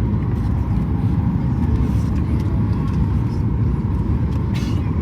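Boeing 737 MAX 8 cabin noise: a steady low rumble from the airframe and engines, with a faint steady tone above it.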